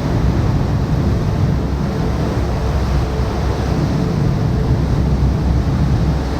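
Waterfall pouring into a river: a loud, steady rush of falling water, heavy in the low end.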